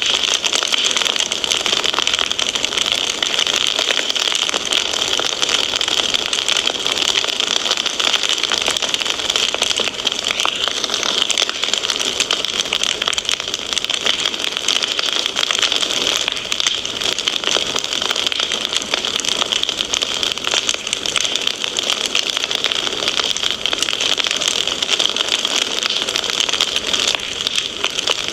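Fireplace fire crackling continuously: a dense stream of small pops and crackles over a steady hiss.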